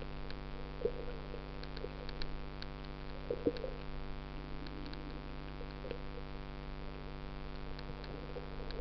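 Steady low hum with several steady tones, dotted with faint scattered clicks and a few soft pops.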